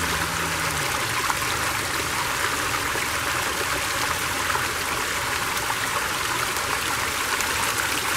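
Creek water flowing steadily, a continuous rushing.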